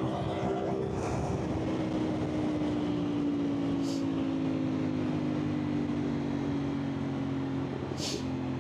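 A CFMOTO 450SR's parallel-twin engine, breathing through an aftermarket Akrapovič exhaust, running under way with a steady note. Its pitch sinks slowly over several seconds and changes near the end.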